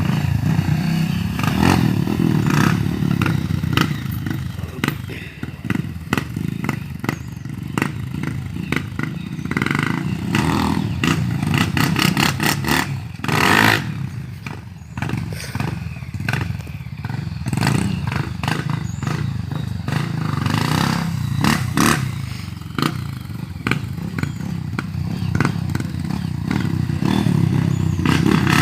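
Motorcycle engines running and revving, with frequent sharp clatter and knocks throughout.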